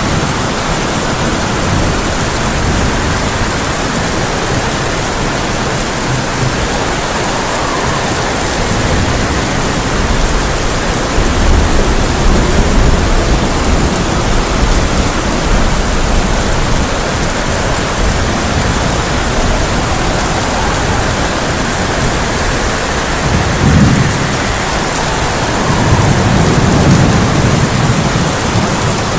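Heavy rain falling on a tin roof as a steady, even hiss, with low thunder rumbling through it several times, most strongly a little before halfway and again near the end.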